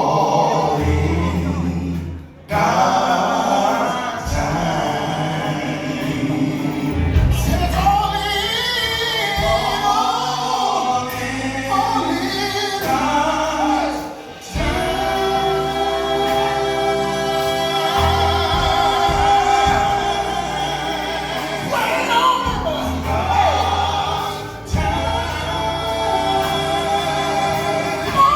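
Gospel song: a choir singing long held notes in harmony over a steady bass accompaniment, with a lead voice sliding around the melody.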